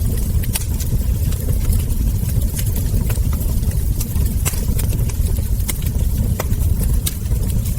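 Wood fire crackling, with frequent irregular sharp pops and snaps from the burning logs over a steady low rumble.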